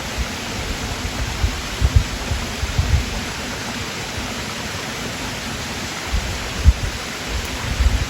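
Steady rush of flowing stream water, with a few low thumps now and then.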